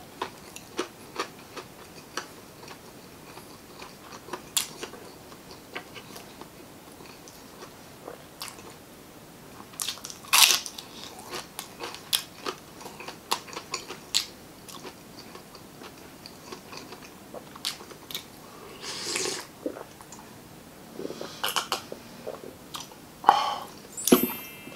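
Close-miked eating sounds: a person chewing with many short crunches and clicks as crispy fried chicken skin is bitten, mixed with softer wet chewing of adobo chicken gizzards and liver with rice. The loudest crunch comes about ten seconds in, with another cluster near the end.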